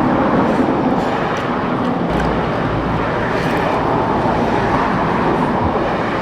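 Steady vehicle noise, an even rumble and hiss with no distinct events.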